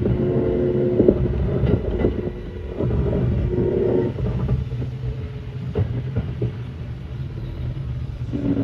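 Kintetsu 9200 series electric train running on the line: a steady low rumble of wheels on rails with occasional sharp clicks from rail joints. A steady motor hum is heard for the first few seconds and then fades.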